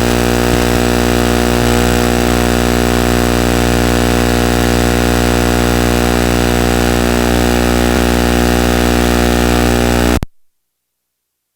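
A loud, steady droning hum at an unchanging pitch, which cuts off abruptly about ten seconds in.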